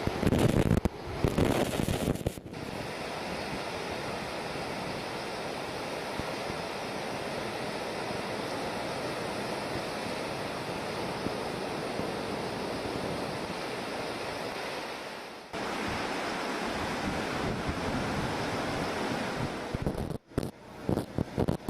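Steady rushing of a typhoon-swollen river in flood, with gusts of wind buffeting the microphone in the first two seconds and again near the end.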